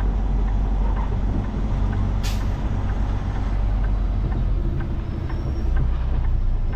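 Peterbilt 389 semi truck's diesel engine running low and steady, heard from inside the cab, with one short hiss of air from the truck's air system a little over two seconds in.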